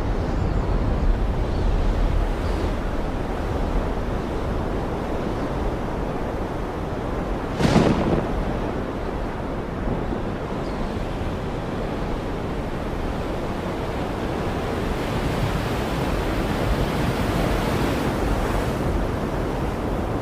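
Steady rushing noise of sea and wind, with a brief louder surge about eight seconds in.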